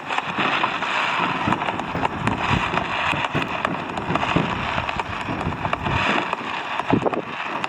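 Fireworks crackling and popping continuously, many small bangs overlapping into a dense rattle.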